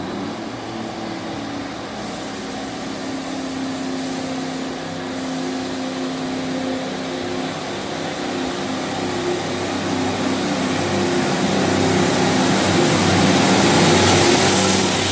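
Diesel train engine running steadily and growing gradually louder as the train draws nearer.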